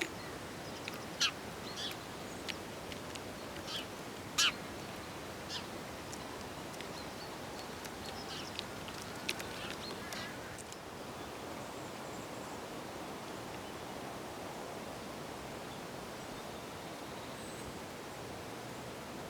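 Garden birds calling at a bird table: a scatter of short, sharp calls, a few of them sweeping down in pitch, over the first ten seconds or so, then only steady background noise.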